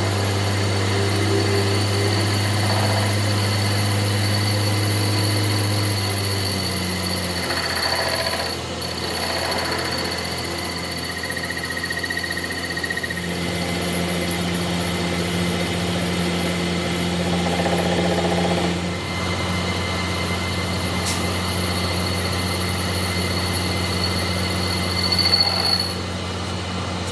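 A workshop machine running steadily with a low mechanical hum, its pitch shifting a few times as it runs.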